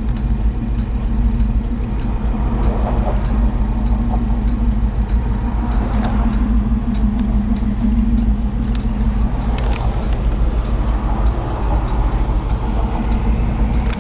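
A 1968 Ford F250's 360 V8 engine running steadily under way, heard from inside the cab with road noise.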